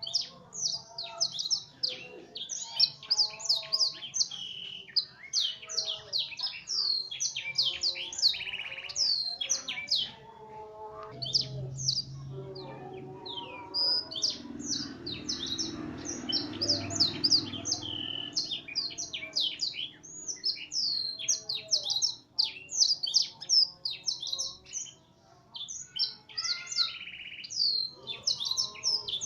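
Domestic F1 canary singing a long, fast song of rapid chirps, sweeping whistles and trills, with phrases copied from blackthroat song.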